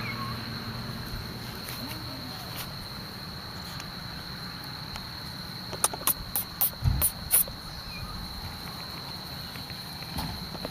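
Crickets trilling in one steady, unbroken high note, with a handful of short clicks and rustles a little past the middle.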